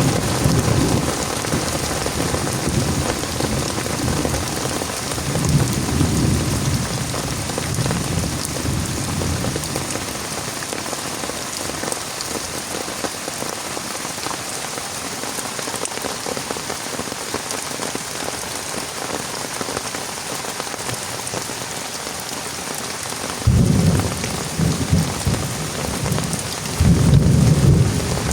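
Heavy rain falling steadily with a constant hiss, broken several times by low rumbles of thunder. The loudest rumbles come in two sudden swells near the end.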